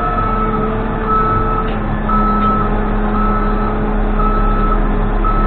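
Backup alarm of a Case 580N backhoe beeping about once a second while the machine reverses, over the steady running of its diesel engine.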